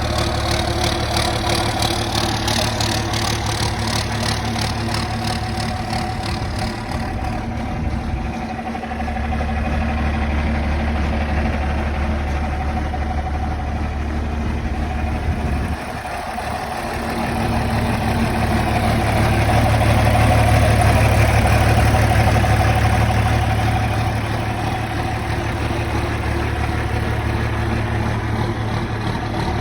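John Deere 4430 tractor's six-cylinder turbocharged diesel engine running steadily, getting louder for a few seconds past the middle.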